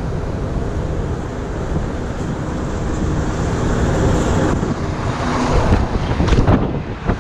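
Wind buffeting the microphone of a chest-mounted action camera while riding a bike through city streets, over traffic noise. A few sharp knocks come near the end.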